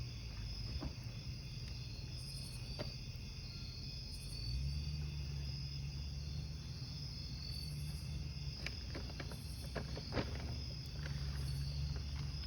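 Crickets chirping steadily over a wood campfire, with a low rumble underneath and scattered sharp crackles from the burning wood, a cluster of pops about two-thirds through.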